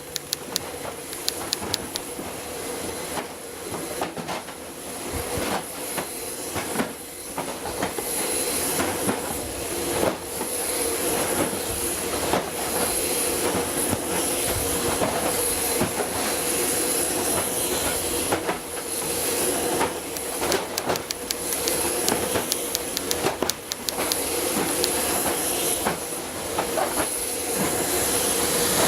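Continuous loud machinery noise with a steady hum and hiss, broken by frequent clanks and knocks.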